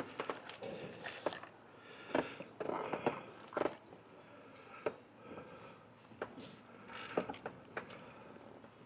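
Handling noises: scattered clicks, light knocks and rustling, with no engine running.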